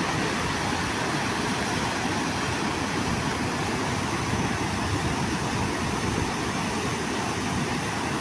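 Brantas river floodwater rushing through the open gates of a dam, a steady, unbroken roar.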